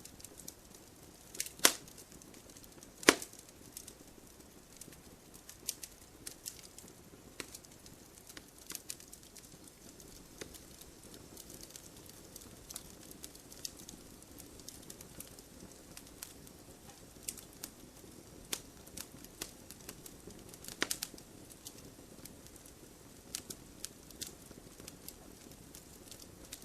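Firewood burning in a wood stove, crackling: scattered sharp pops over a faint low rush of flame, with two loud pops in the first few seconds and a quick cluster of pops some seconds before the end.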